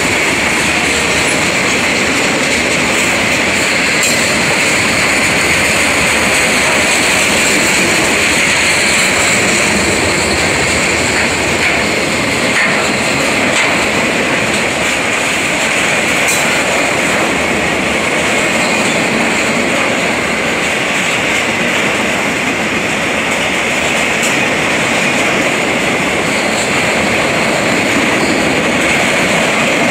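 Freight train rolling past at close range: the steady noise of steel wheels on the rails as covered hoppers and then empty centerbeam flatcars go by.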